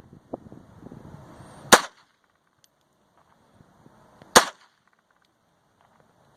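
Gunshots fired one at a time: sharp single cracks about a second and a half in and about four and a half seconds in, with a third right at the end, and light handling noise between the first two.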